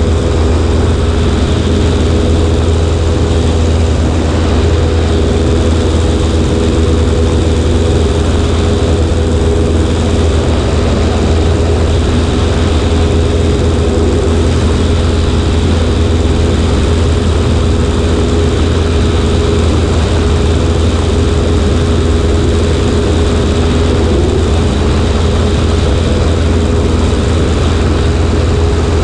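Cessna 140A's small piston engine and propeller running steadily in flight, heard from a camera on the right wing with the rush of air over it.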